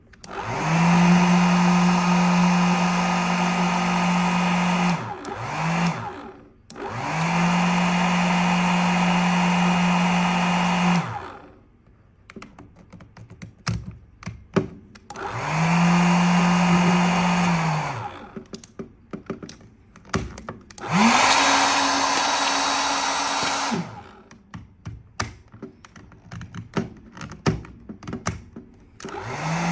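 Handheld hair dryer switched on and off several times, its motor and fan running steadily in runs of a few seconds each. One run, about two-thirds of the way through, is higher in pitch, a different speed setting. Clicks and knocks from the switch and handling fill the gaps.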